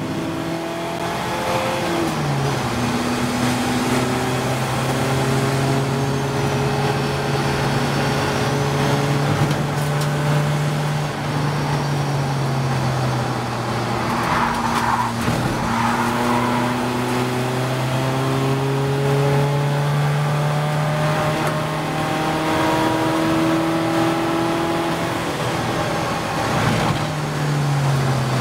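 Onboard sound of an Audi TT Cup race car's 2.0 TDI diesel engine under power around a circuit, its pitch rising and falling slowly as it is held in one gear, with no gear changes. There is a brief rush of tyre or kerb noise about halfway through.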